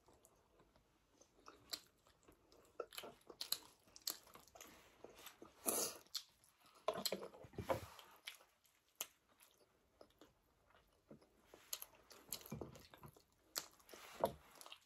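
People chewing and biting chapati with buffalo-meat curry close to the microphone: irregular soft smacking and crunching with small mouth clicks.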